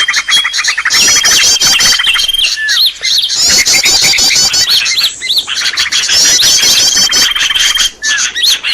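Bird-lure call recording: loud, dense chirping and trilling from several small birds, with a thin steady whistle under the chirps. The same sequence of calls comes round again every few seconds, as in a looped track.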